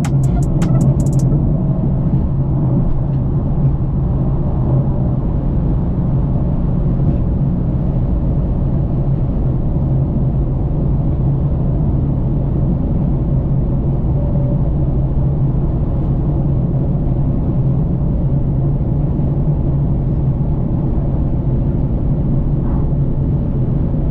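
A car driving at a steady speed: a low, steady rumble of engine and road noise with no revving.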